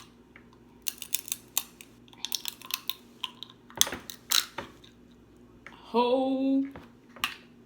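Snow crab shells cracking and snapping by hand in a quick run of sharp clicks, with one short voice sound near the end.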